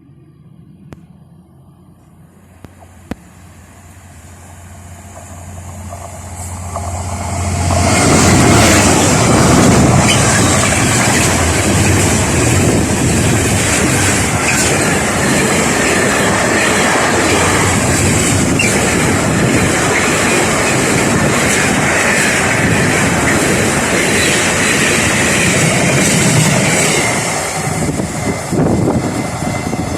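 Train approaching and passing close by on the line. It grows louder over several seconds, then a long steady rush of wheels on rails, easing off near the end.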